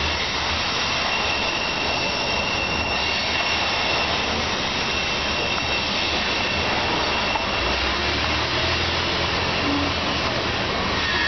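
Covered hopper cars of a long grain train rolling past: a steady roar of wheels on rail, with a thin high squeal over it for the first few seconds.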